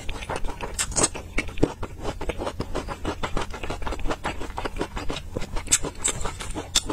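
Close-miked chewing of a mouthful of soft steamed bun: a rapid run of wet mouth clicks and smacks, several a second.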